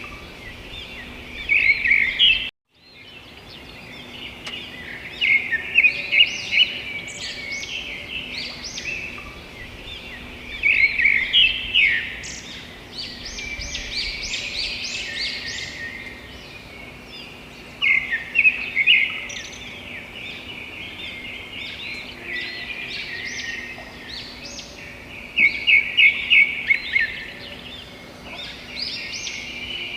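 Birds chirping in quick runs of calls every few seconds, over a steady background hiss and a faint hum; the sound cuts out completely for a moment about two and a half seconds in.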